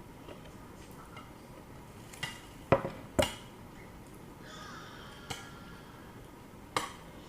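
Mukbang eating sounds: a handful of sharp clicks and clinks, like utensils and a plate handled during the meal, the two loudest close together about three seconds in.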